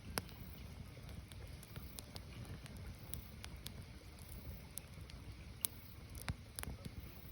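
Wood fire burning: a low steady rumble with scattered sharp crackles and pops. One louder pop comes just after the start, and two more come near the end.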